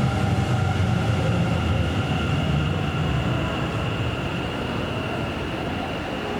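Kintetsu electric commuter train running along the platform, a heavy low rumble with a steady high whine over it, slowly fading.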